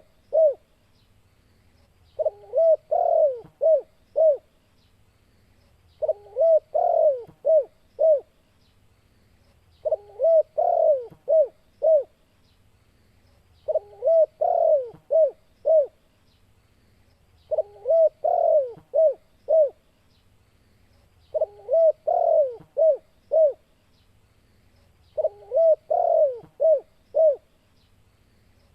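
Spotted dove (tekukur) cooing its call over and over: each phrase is a quick run of coos ending in three short separate notes, repeated about every four seconds, seven times.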